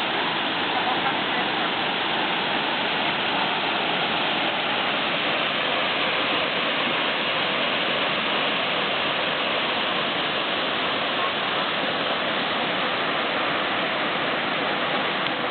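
A waterfall of about 42 metres, falling mostly in two columns into a pool, rushing steadily and without a break.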